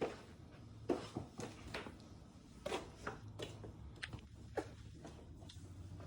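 Scattered light clicks and knocks of small parts and tools being handled and moved about, as the missing coilover top nut is searched for.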